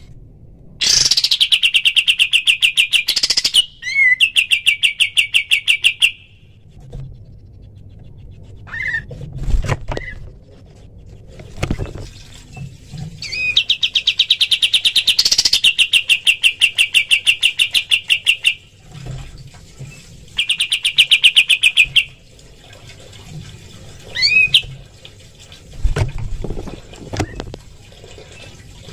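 Kapas tembak songbird singing its rapid rattling 'tembakan' trills: fast trains of sharp, evenly repeated notes, each lasting one to five seconds, separated by pauses and single short chirps. The longest trill runs through the middle, and another comes a few seconds later.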